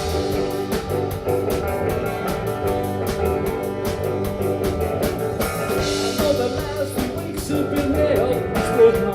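Live rock band playing a song: guitar, bass and drums keeping a steady beat, in a passage between sung lines.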